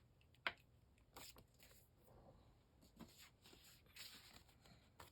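Faint handling of paper scraps: quiet rustles and light ticks, with one sharp click about half a second in.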